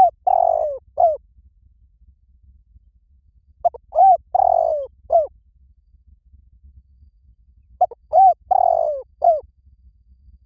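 Spotted dove cooing: a short phrase of arched coos with a longer, rough-sounding middle note, repeated about every four seconds.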